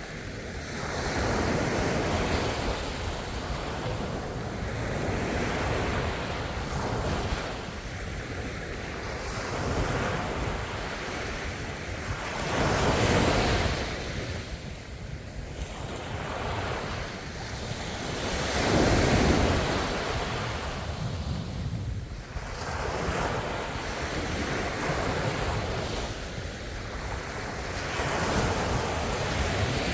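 Ocean waves breaking and washing on the shore in a continuous wash, swelling and falling every few seconds, with the biggest surges about 13 and 19 seconds in.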